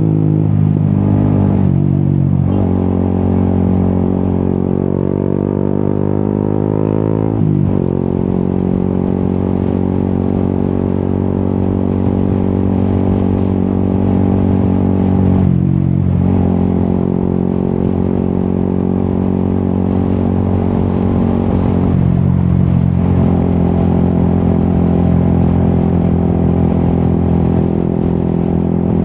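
Yamaha XSR 155's single-cylinder engine through an Akrapovic exhaust on the move, pulling up through the revs with the pitch rising. The note breaks briefly three or four times for gear changes, then runs at a steady cruising note.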